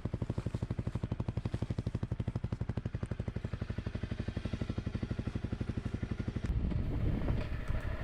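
Honda CRF250L Rally's single-cylinder four-stroke engine idling with an even, fast low pulse. About six and a half seconds in, the pulsing gives way to a steadier rumble.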